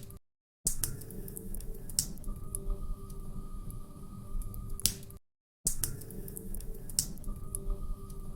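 Wood fire crackling in a fireplace: scattered sharp pops and snaps over a low steady rumble. The sound cuts out completely for about half a second twice, just after the start and about five seconds in.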